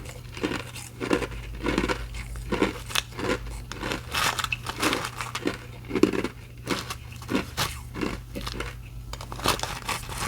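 Ice being crunched and chewed close to the microphone: a steady run of crisp crunches, about two a second.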